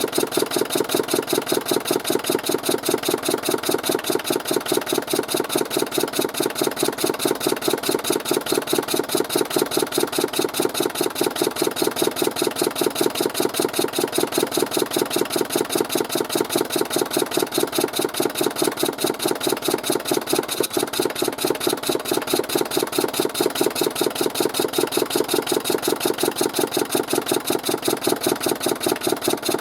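A boat engine, started with a homemade crank handle, running steadily at idle with an even, rapid beat.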